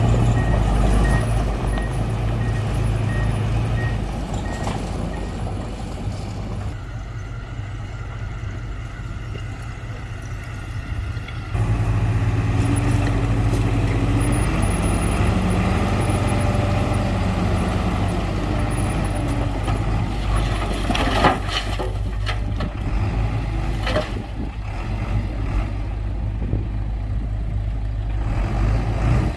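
Diesel engine of heavy earthmoving machinery running steadily; it grows louder about eleven seconds in, with a few knocks around twenty seconds in.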